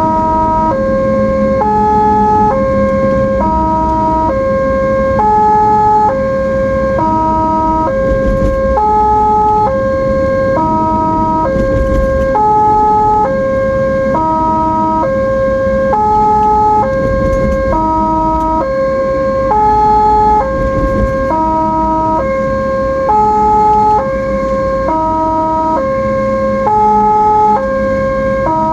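Ambulance siren in a two-tone hi-lo pattern, switching steadily between a high and a low note about once a second, over the low rumble of the vehicle on the road.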